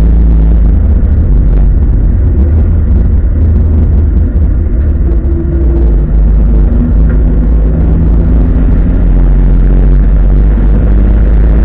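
Opel Commodore A race car's straight-six engine running hard at racing speed, heard loud and low from inside the cabin, with a brief dip in loudness near the middle.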